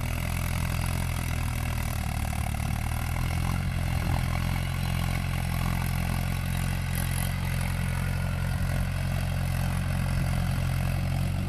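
Mahindra tractor's diesel engine running steadily at a constant speed, with a low, even drone.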